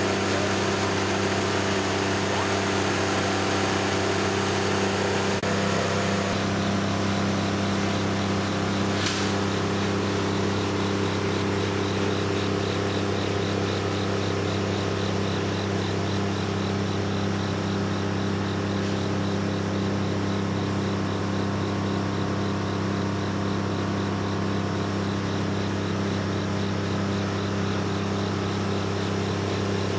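Steady mechanical drone, a low hum with even overtones under a hiss, from an engine or motor running at a constant speed. From about six seconds in, a faint, fast high ticking runs alongside it.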